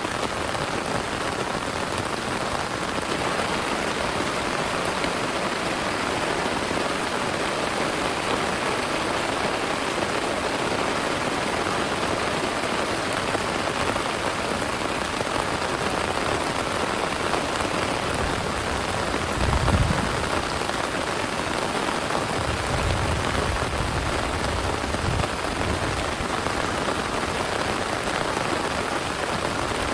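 Heavy rain falling, a steady dense hiss of drops. A short low rumble comes about two-thirds of the way in, with a longer, softer one a few seconds later.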